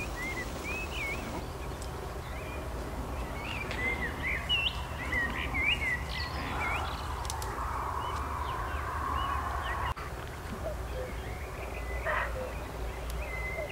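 Birds singing outdoors, a string of short, quick chirps that rise and fall in pitch, over a steady low rumble.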